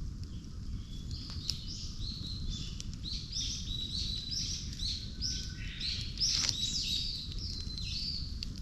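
Birds chirping in quick series of short, high, arching notes, several a second, busiest about three to seven seconds in. Underneath runs a steady low rumble with a few sharp clicks.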